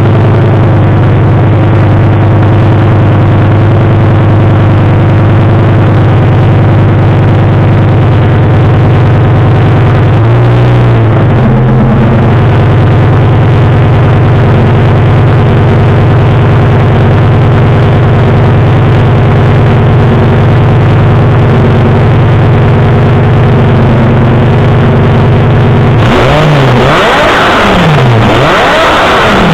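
Lamborghini Gallardo V10 running at a steady cold-start fast idle, heard close to the tailpipes. About ten seconds in there is one short blip of the throttle. Near the end there is a quick series of sharp revs that rise and fall.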